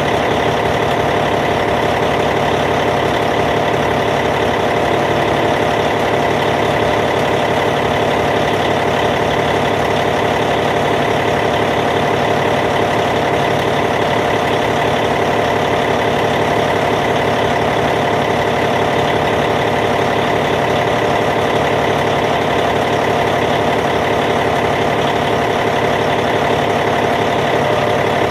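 Caterpillar C15 inline-six diesel engine of a Cat D8T bulldozer idling steadily.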